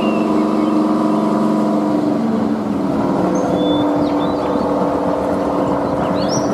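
Diesel locomotive engine running steadily, its note shifting about two and a half seconds in. Birds chirp over it.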